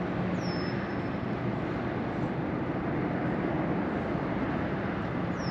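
Steady outdoor rushing noise with a faint low hum, with two short high whistles, each sliding down and then holding, one near the start and one near the end.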